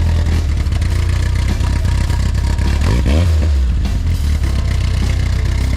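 Car engine rumbling as a car pulls out, with a short rev that rises and falls about three seconds in.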